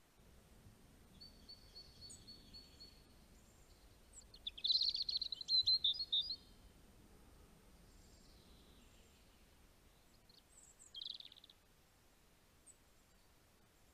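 Birds chirping and trilling over faint low background noise. The loudest run of calls comes about five seconds in, with a shorter trill around eleven seconds.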